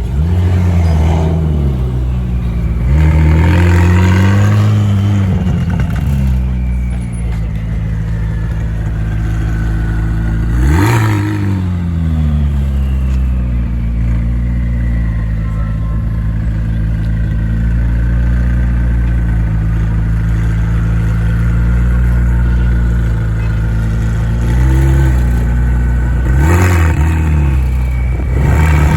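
Car engine idling and being revved: several throttle blips, a longer rev about three seconds in, a sharp one at about eleven seconds, and two more near the end, each settling back to a steady idle.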